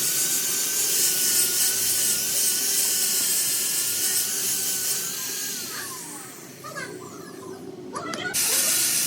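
A high-speed hand power tool running with a loud hiss and a wavering whine. About five and a half seconds in it spins down with a falling whine, then starts up again abruptly a little after eight seconds.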